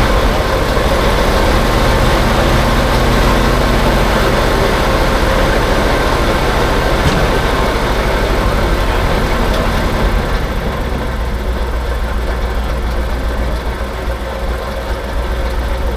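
Vintage dump truck engine idling steadily, a little quieter from about ten seconds in.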